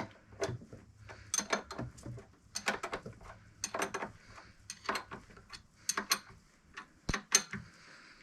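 Irregular metallic clicks and clinks of hand tools and hose fittings being handled while A/C hose lines are fitted and snugged down.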